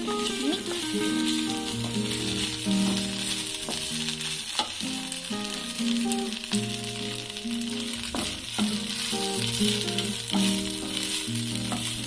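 Pieces of idli sizzling as they fry in oil in a nonstick pan, turned with a wooden spatula that taps against the pan a few times. Background music plays throughout.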